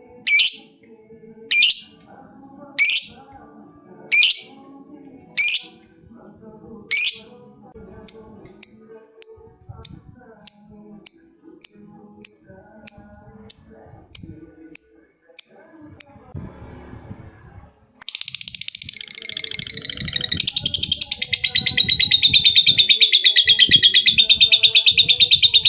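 Lovebird calling: loud shrill single calls about a second and a half apart, then shorter, quicker chirps about two a second. About eighteen seconds in, a long, unbroken, very rapid chattering trill begins: the lovebird's long 'ngekek'.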